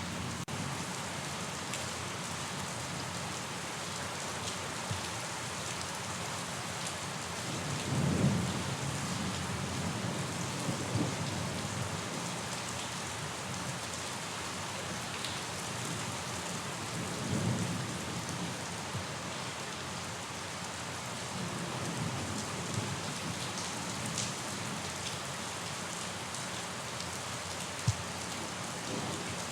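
Steady rain falling, with low rumbles of thunder swelling up about 8 and 17 seconds in. A single sharp tap sounds near the end.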